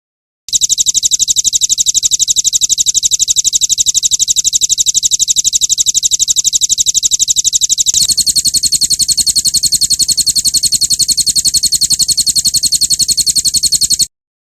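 Recorded birdsong used as a training master: a loud, fast, even, high-pitched trill of rapidly repeated notes. It shifts slightly higher about eight seconds in and cuts off abruptly just before the end.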